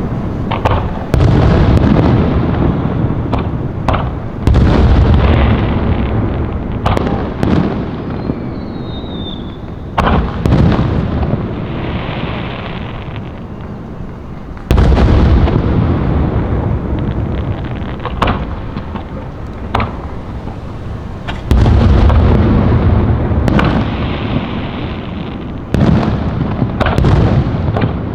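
Aerial fireworks bursting one after another, about a dozen sharp bangs, each trailing off into a deep rolling echo. A short falling whistle sounds about eight seconds in.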